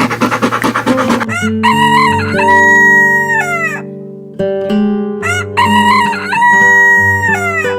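A rooster crowing twice, each crow a long held call that falls away at the end, over background music with sustained notes. A rough, rhythmic scratchy noise comes before the first crow.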